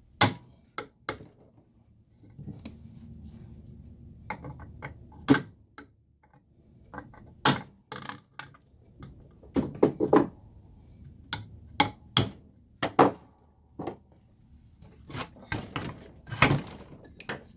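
Irregular sharp knocks and clanks of metal, about twenty of them, as a bent amplifier chassis and tools are handled and knocked on a workbench.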